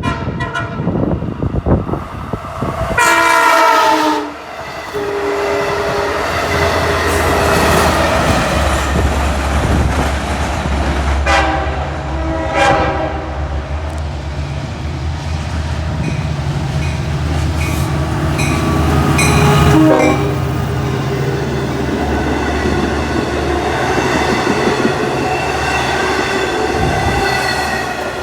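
A train sounds its horn several times as it passes, a long blast a few seconds in and more blasts later, over the steady rumble of the train and its wheels on the rails.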